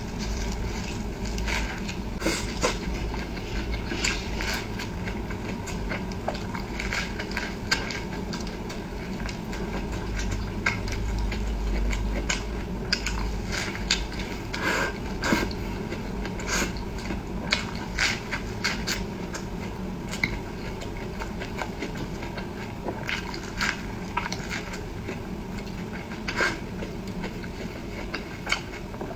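Close-miked eating: chewing and biting with many irregular sharp clicks, over a steady low hum.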